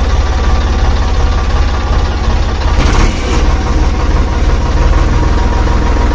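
Miniature DIY tractor and flour-mill machine running steadily with a fast, even low throbbing. There is a brief rattling hiss about three seconds in.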